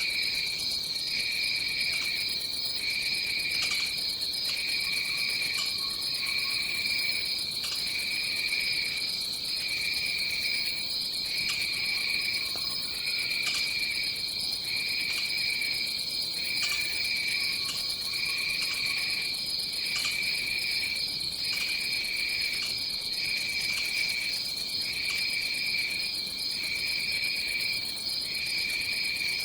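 Tropical forest insects trilling: one steady high trill runs on, while a second, lower trill pulses on and off about once a second.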